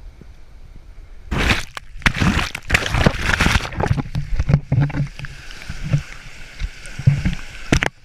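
Water splashing and sloshing in irregular surges, with repeated low knocks, as around a small boat or kayak in rough water.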